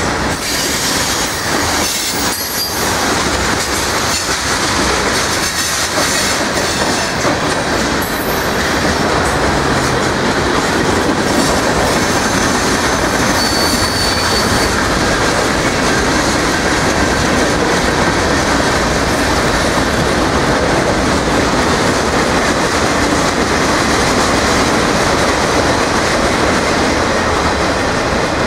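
Steel-wheeled freight cars of a mixed manifest train (hoppers, boxcars, tank cars) rolling past at close range: a steady, loud noise of wheels on the rails. A short high-pitched wheel squeal comes about halfway through.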